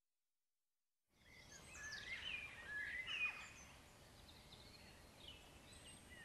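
About a second of dead silence, then songbirds fade in, chirping and warbling quietly in short sliding phrases, loudest a second or two after they come in and softer after.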